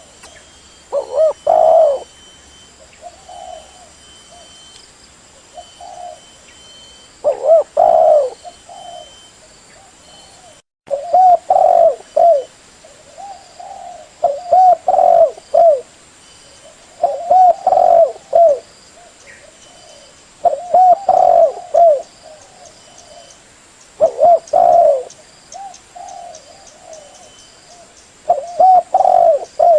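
Spotted dove (tekukur) cooing. Its phrase of low coos repeats about every three to four seconds, with softer coos between.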